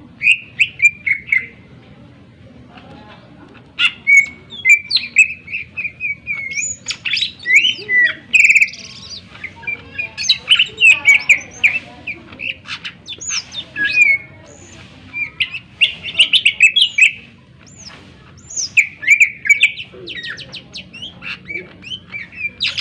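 Cucak ijo (green leafbird) singing: sharp, rapid slurred notes and chatter in loud bursts, broken by a few short pauses.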